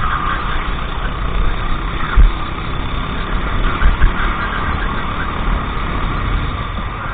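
Go-kart engine running steadily at racing speed, recorded on board, with a couple of short low thumps about 2 and 4 seconds in.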